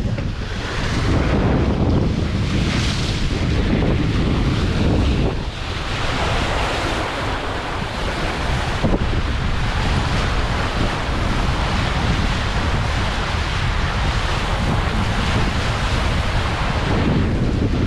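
Wind buffeting the microphone, mixed with the rush of water along the hull of a sailboat moving fast under spinnaker.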